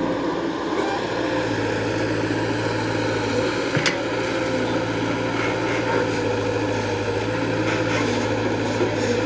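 A motor running steadily with an even hum, and a single sharp click about four seconds in.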